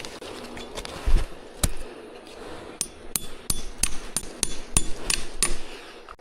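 A hand tool striking hard about a dozen times, the strikes coming faster, about three a second, over the last few seconds, each with a short bright ring.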